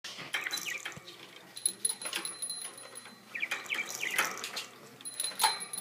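Budgerigar chirping and chattering in short, quick chirps, mixed with sharp clicks and rattles as it plays in its cage.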